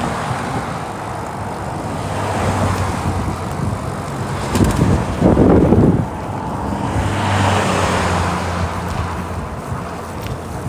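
Highway traffic passing a moving cyclist, with engine hum and tyre rush swelling and fading as vehicles go by and wind noise on the microphone. A louder rushing surge comes about five seconds in.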